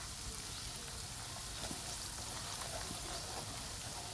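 Chicken pieces frying in groundnut oil with spice powders, a steady sizzle with scattered small crackles.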